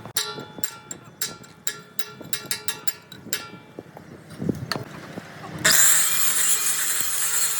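Metal parts clinking and tapping in quick, ringing knocks. About five and a half seconds in, a power tool starts and runs loud and steady with a harsh, hissing grind.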